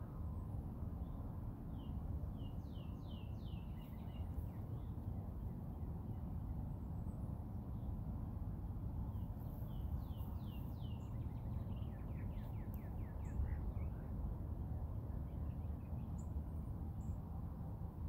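A bird sings twice, each song a run of quick high notes falling in pitch, the second run longer. Under it runs a steady low outdoor rumble.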